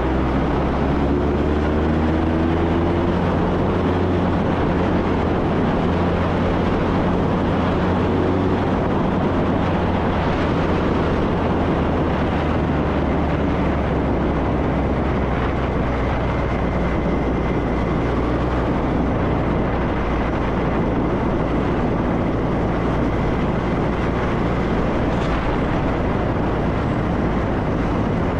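Motorcycle under way, its engine running steadily beneath a constant rush of wind and road noise, with the engine note climbing in the first few seconds as it accelerates.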